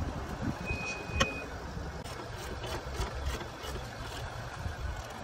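A vehicle engine running with a steady low rumble, and a single short high-pitched electronic beep about a second in.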